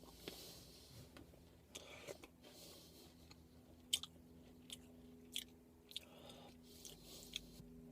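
Faint crunching and chewing of a chocolate-coated Pocky biscuit stick, in short irregular crackles about every half second.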